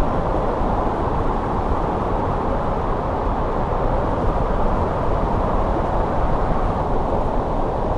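Steady winter wind blowing, a low, even rush with no distinct gusts.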